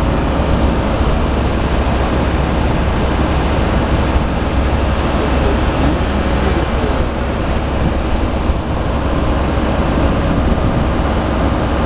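Steady loud rumble and hiss, strongest and fluttering in the deep lows, with no clear rhythm or events.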